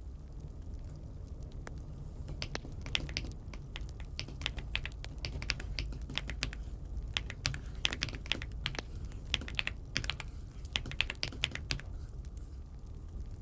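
Typing on an Aula F75 mechanical keyboard: irregular runs of quick key clicks with a short pause midway, over a steady low hum.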